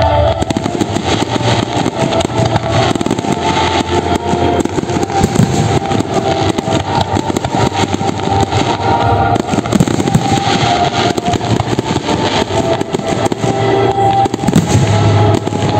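Aerial fireworks going off in a rapid, continuous barrage of bangs and crackling, with no break.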